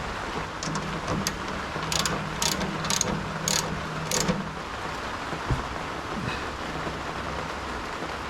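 Hand-tool work during reassembly: a run of about five sharp metallic clicks, roughly two a second, over a steady hiss and a low hum.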